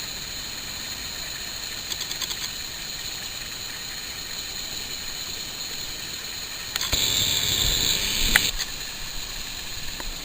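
Wind noise: a steady hiss, then a stronger gust buffeting the microphone about seven seconds in, lasting nearly two seconds, with a sharp click near its end.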